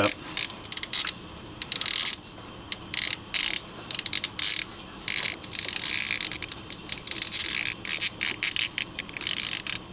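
Socket ratchet clicking in short quick runs with brief pauses between them, running a new spark plug down into the cylinder head.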